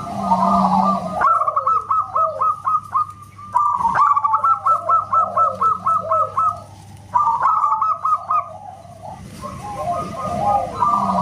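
Zebra doves (perkutut) cooing loudly in rapid runs of short clipped notes, about six a second, over lower falling coos. The phrases last a few seconds each, with brief pauses between them.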